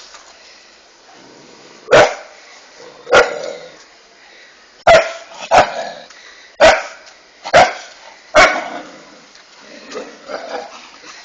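A dog barking: seven loud, sharp barks at irregular gaps of about a second, then a few fainter calls near the end.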